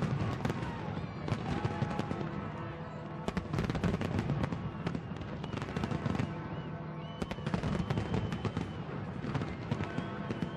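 New Year fireworks display going off in rapid, irregular bangs and crackles, with music playing underneath.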